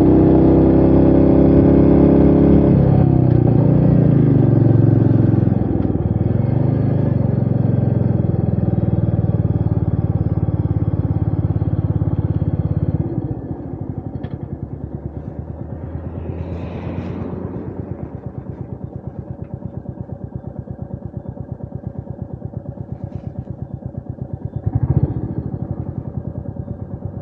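Royal Enfield Meteor 350's single-cylinder engine running under load, its pitch falling a few seconds in. About halfway through it drops to a quieter, even low thumping at low revs, with two brief rushes of wind.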